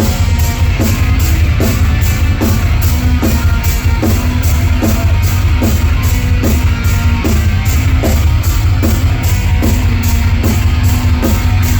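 Heavy metal band playing live, an instrumental passage between sung lines: distorted electric guitar, bass and drum kit with a steady, driving beat of about three hits a second.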